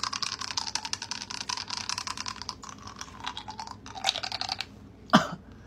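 Hard-candy lollipop being crunched between the teeth, a dense run of fast, crisp cracks that stops about four and a half seconds in. A brief, louder sound with a falling pitch follows near the end.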